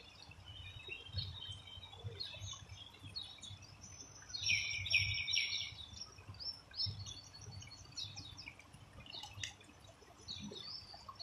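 Birds chirping and calling, with a louder run of quick repeated notes about four and a half seconds in, over a low background rumble.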